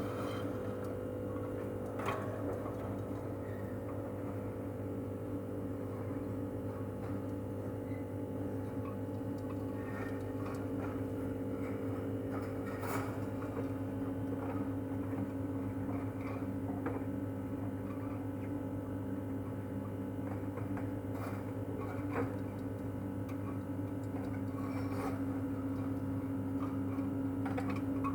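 A steady electrical hum, with a few faint clicks and knocks scattered through it.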